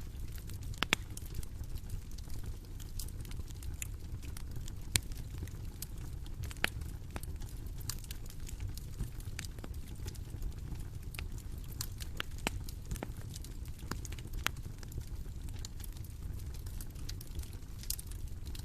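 Bonfire burning, a steady low rumble with irregular crackles and sharp pops, the loudest about a second in and around five and six and a half seconds in.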